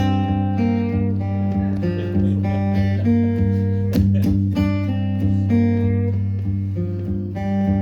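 Guitar played solo: picked melody notes ringing over a steady low bass note, the instrumental opening of a song.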